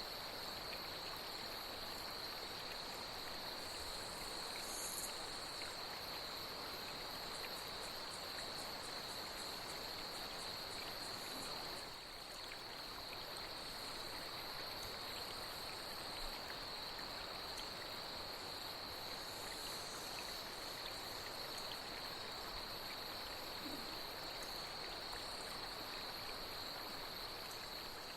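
Flowing stream with a steady, high chorus of night insects, the cicadas of a nature-sounds bed.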